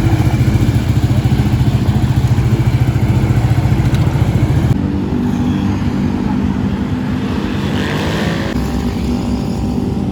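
Loud engine running with a rapid low throb, then an abrupt cut to another engine about halfway through, which gives a short rising rev.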